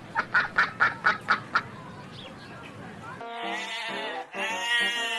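Duck quacking rapidly, about seven quacks in the first two seconds over a noisy background. About three seconds in, a long, wavering, pitched bleat begins.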